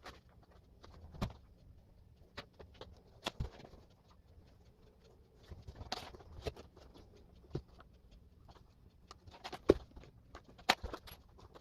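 Handling noise: irregular light clicks and knocks, a dozen or so at uneven intervals, the loudest about ten seconds in.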